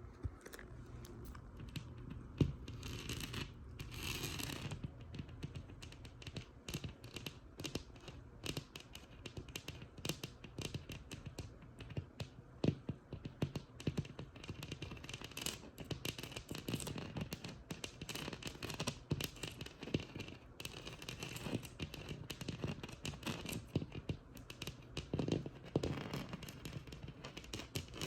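Tapping and scratching on a textured wall: a dense, irregular run of small taps, with longer rasping scratches mixed in.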